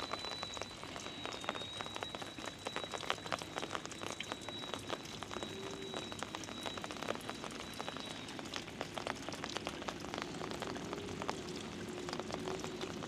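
Monsoon rain falling steadily, many separate drops ticking and pattering. A faint high steady tone runs through the first eight seconds or so.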